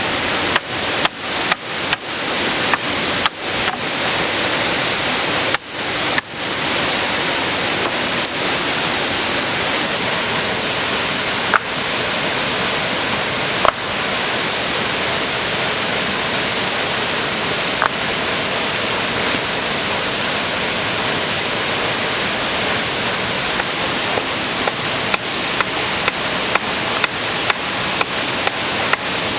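Waterfall rushing in a steady loud roar. Runs of sharp knocks come about two a second near the start and again near the end, with a few single knocks in between.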